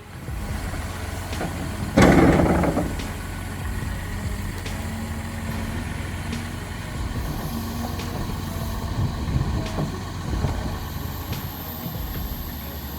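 Heavy truck or machinery engine running steadily with a low rumble. A loud burst of noise comes about two seconds in and lasts about a second.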